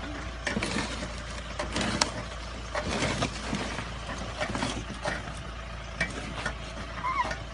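An off-road 4x4's engine running, with irregular knocks and clunks from the vehicle working over rough, muddy ground.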